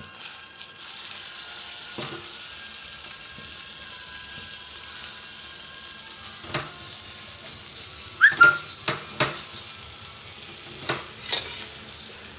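An egg dosa topped with chicken masala sizzles steadily in a small pan, while a metal spatula scrapes and taps against the pan several times. The loudest scrapes come about eight to nine seconds in.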